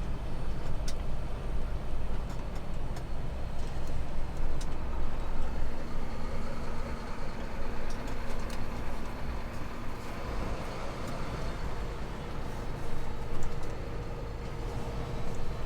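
Semi truck running with a steady low rumble and noise, with scattered sharp clicks.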